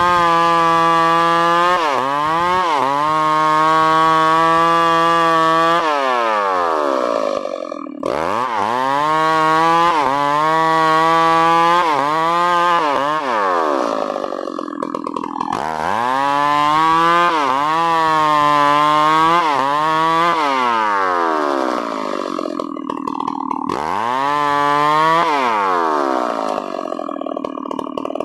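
Two-stroke chainsaw (New West PRO 888, a Stihl 038/381-class saw) cutting wood. It is throttled up and held at high revs about four times, dropping back to a rough idle between cuts.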